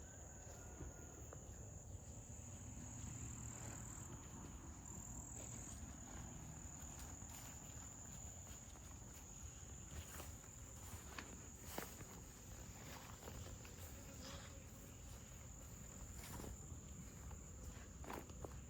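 A steady high-pitched insect trill, faint, with scattered soft clicks and rustles throughout.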